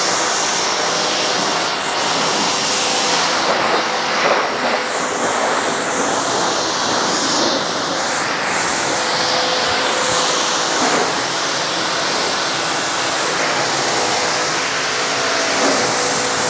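Pressure washer spraying a car with a steady hiss of water, the rush shifting as the jet sweeps across the panels, with the pump's motor humming underneath.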